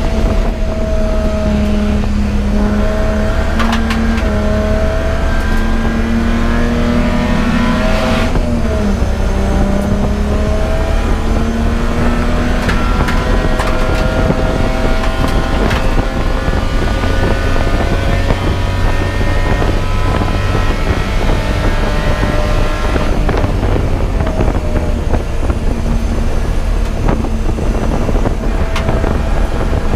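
Race car engine under hard acceleration, its pitch climbing through the revs and dropping back at upshifts about 4 s in, about 8 s in and again late on, over steady rumble and wind noise.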